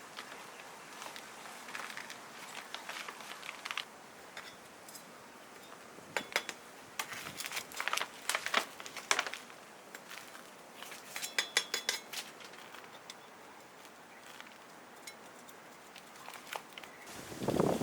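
Light clicks and clinks of small hard objects being handled, in scattered clusters with a few brief ringing taps.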